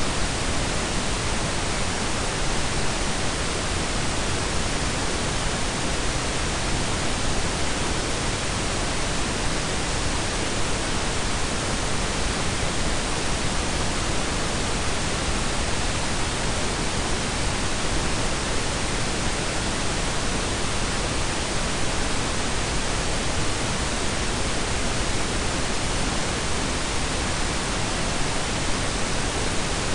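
A steady blend of synthetic pink and brown noise: an even, unchanging hiss.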